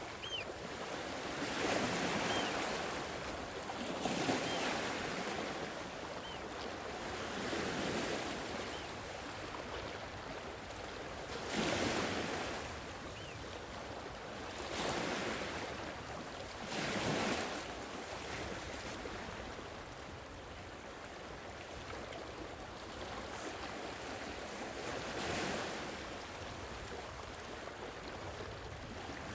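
Sea waves washing onto a shore: a steady wash of surf, with a wave surging in every few seconds.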